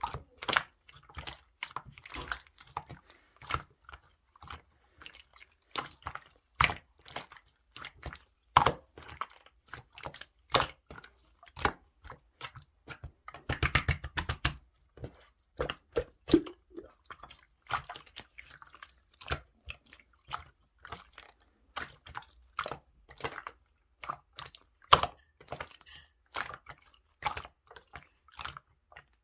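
Clear green slime being squished and worked by hand, giving irregular sharp clicks and pops, with a quick run of them about halfway through.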